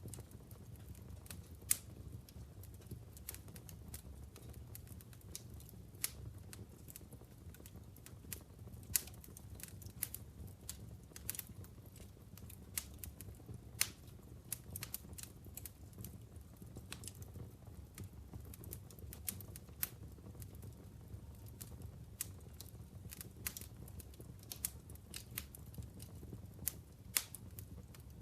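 Logs burning in a wood fireplace, crackling with irregular sharp snaps and pops, several a second, a few of them much louder, over a steady low rumble.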